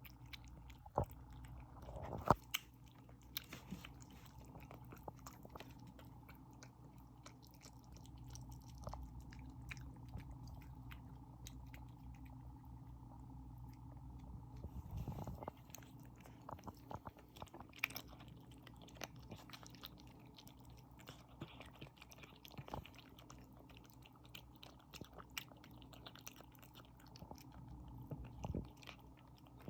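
Five-month-old Korean Shorthair kitten eating fast: quick, irregular chewing and biting sounds with scattered sharp clicks, the loudest about two seconds in.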